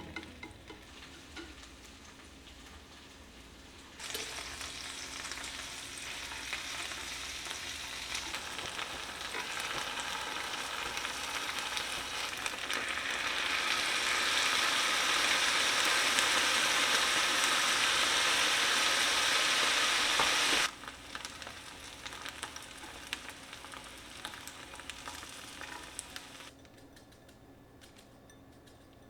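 Food sizzling in a frying pan. It starts faintly, jumps in a few seconds in and grows louder, then cuts off abruptly about two-thirds of the way through, leaving only faint sounds.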